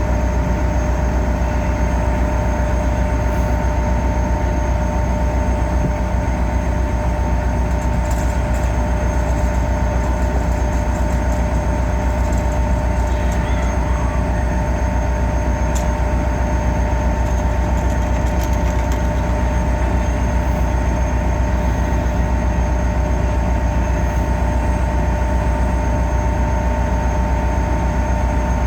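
Caltrain commuter train running steadily: a deep constant rumble with a steady two-note whine over it that does not change in pitch or loudness, and a few faint clicks.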